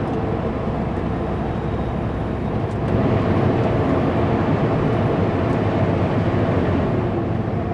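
Kenworth W900L semi truck's diesel engine running steadily under way, with road noise in the cab; it grows a little louder about three seconds in.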